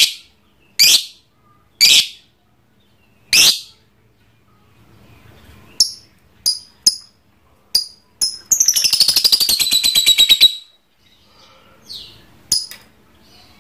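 Lovebird calling: four loud harsh squawks in the first few seconds, then a string of short sharp chirps, then a rapid chattering trill of about two seconds that falls slightly in pitch, the 'ngekek' prized in lovebirds, followed by a couple more chirps.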